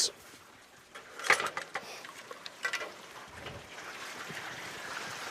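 A few short knocks of cookware being handled, then a faint steady hiss.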